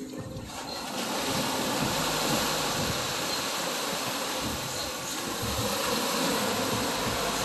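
Steady outdoor rushing noise of wind and surf, with a low, shifting rumble and no distinct events.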